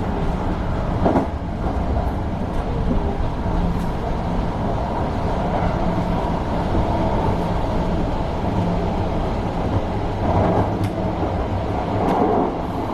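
Hankyu Kobe Line electric train running on the line, heard from on board: a steady rumble of wheels on rail with a faint motor hum. There is a sharp click about a second in and a couple of louder clatters near the end.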